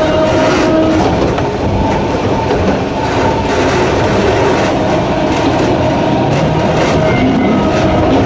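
Narrow-gauge Sangi Railway Hokusei Line electric train running, its nose-suspended traction motors giving a steady whine over the rumble of the wheels, with clicks as the wheels cross rail joints.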